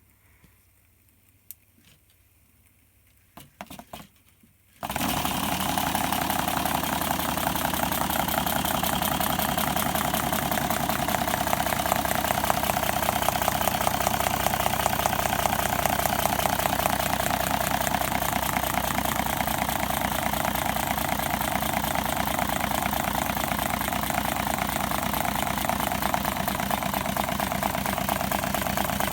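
A few faint clicks, then about five seconds in a homemade water-cooled six-cylinder Stirling engine starts up abruptly and runs loud and steady with a fast, even mechanical rattle.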